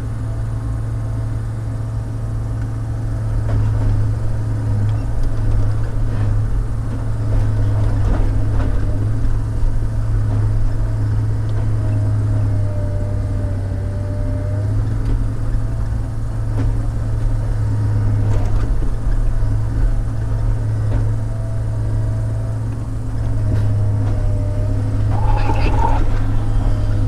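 Diesel log loader running steadily under load, its engine droning low with a hydraulic whine that comes and goes, and a few knocks of logs being handled.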